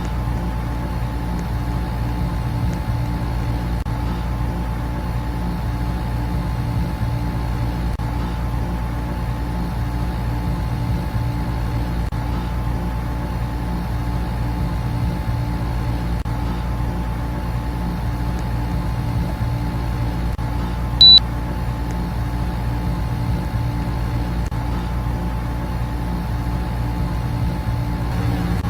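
Air conditioner and electric fans running together, a steady hum with a low electrical drone and a faint high whine. About 21 seconds in there is one short, loud high beep.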